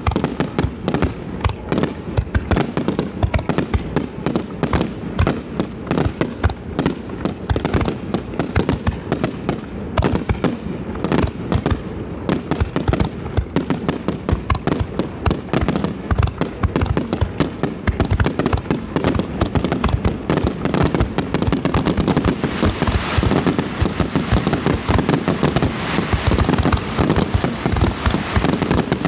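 Fireworks display: a rapid, continuous barrage of shell bursts and crackling reports, growing denser toward the end.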